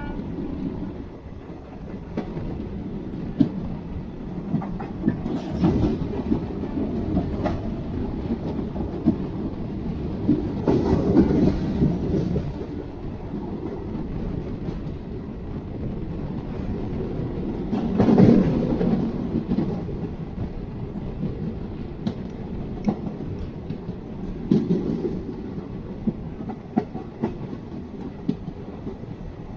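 Passenger train running along the track: a steady rumble of the coaches with wheels clacking over rail joints, and louder swells of clatter a few times, the loudest a little past halfway.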